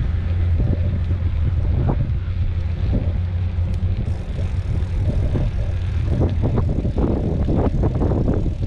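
Wind buffeting the microphone: a steady low rumble with irregular gusty flutters.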